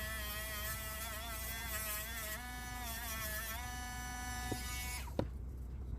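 Small handheld rotary tool running with a high buzzing whine, its pitch wavering up and down; it shuts off about five seconds in, followed by a sharp click.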